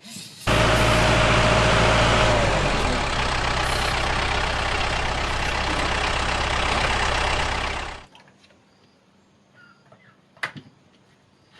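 Engine running steadily, starting abruptly and cutting off suddenly about eight seconds in. Then a few faint clicks and one sharp knock.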